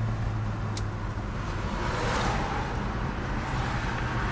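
Big-block V8 of a 1968 Plymouth Road Runner cruising at highway speed, heard from inside the cabin: a steady low engine drone that eases off about two seconds in, while road and wind rush grows.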